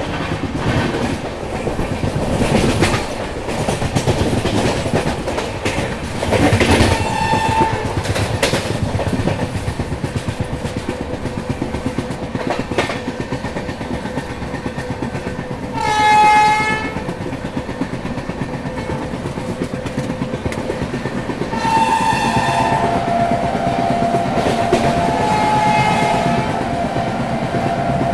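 Shatabdi Express passenger train running at speed, heard from an open coach door, with the wheels clattering over the rails. The locomotive horn sounds briefly about 7 seconds in, gives a louder blast around 16 seconds, and then sounds a longer two-note horn from about 22 seconds to the end.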